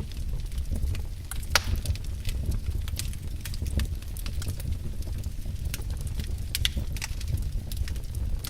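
Wood fire burning in a fireplace, crackling and popping at irregular intervals over a low, steady rumble, with one sharper crack about a second and a half in.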